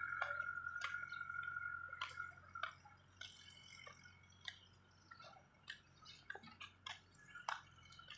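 Frogs calling in a rice paddy: a steady high trill that fades out about two seconds in, then scattered sharp click-like calls, over a faint low hum.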